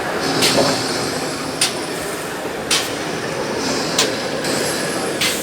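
A train rolling along with a steady rumble, its wheels clicking sharply over rail joints about once a second.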